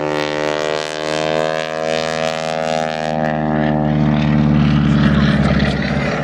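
Propeller aerobatic plane's piston engine running at high power. The note rises slightly, then falls steadily in pitch over the last few seconds.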